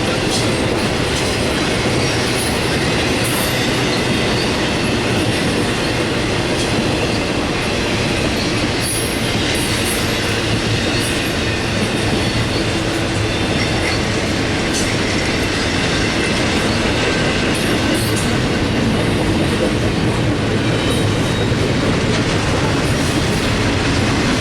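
CSX freight train's container cars rolling past, a steady loud rumble and rattle of steel wheels on rail with clacking over rail joints and a few brief high squeals.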